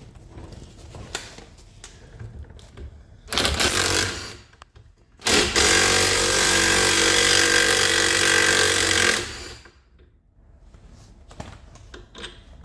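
Pneumatic impact tool hammering on a suspension bolt: a short burst, then a steady burst of about four seconds.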